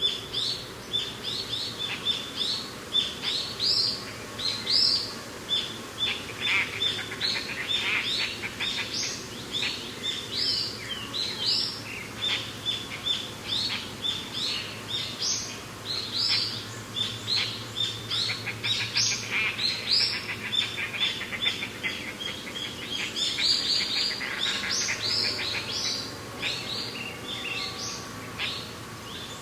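A chorus of many small birds chirping and calling, with quick overlapping chirps that run on without a break.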